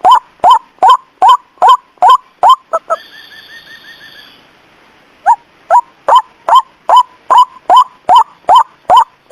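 White-breasted waterhen lure call: loud, short rising notes repeated about two to three times a second. A break about three seconds in holds a fainter rapid trill, and the notes resume just after five seconds.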